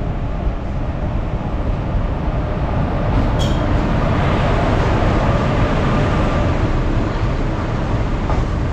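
Passenger express train running on the rails: a steady rumble of wheels and coaches, with one sharp click about three and a half seconds in.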